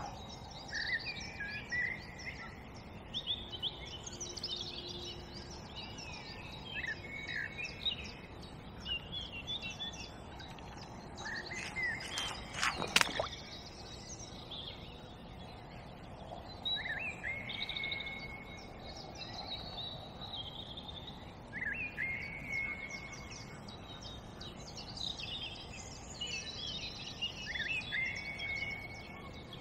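Several birds singing, one repeating a short whistled phrase every few seconds, over a steady outdoor hiss. A single sharp click about halfway through is the loudest sound.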